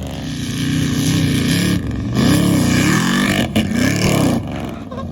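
Pickup truck engine revving up and down over and over under hard load, with a loud rushing noise over it.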